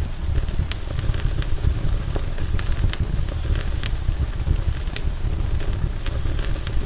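Campfire burning: a steady low rumble with frequent sharp crackles and small pops scattered irregularly throughout.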